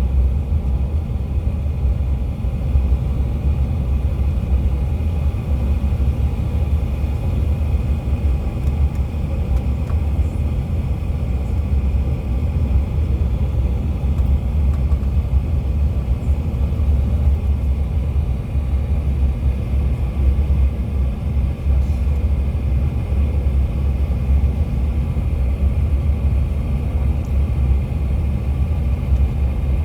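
Cabin noise inside a CRJ700 regional jet: a steady low rumble of engines and airflow with a faint steady whine from the rear-mounted GE CF34 turbofans.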